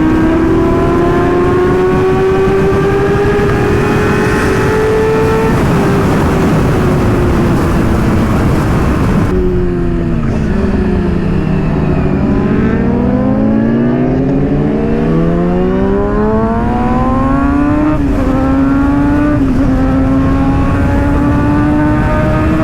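Sport motorcycle engine at speed with wind on the microphone. The revs climb slowly, ease off about five seconds in, fall sharply near ten seconds, then rise again and hold steady for the last few seconds.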